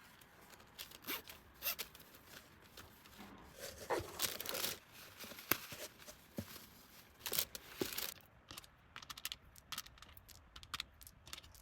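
Small items and their packaging handled by hand: intermittent rustling and scraping strokes with light clicks, a few of them longer and rasping like a zipper or tearing.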